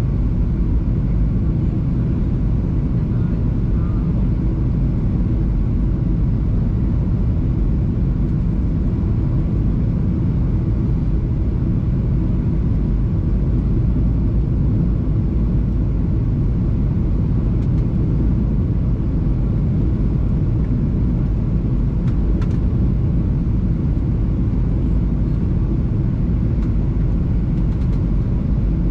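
Steady low rumble of cabin noise inside a Boeing 737-700 in flight: engines and airflow.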